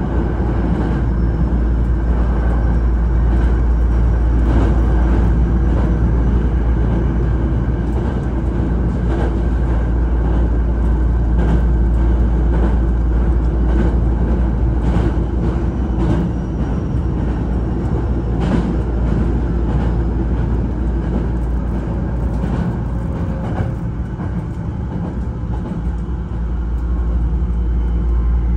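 Hankyu electric train heard from inside the passenger car while running: a steady rumble of wheels on rail, with occasional short clacks. A faint whine comes in near the end.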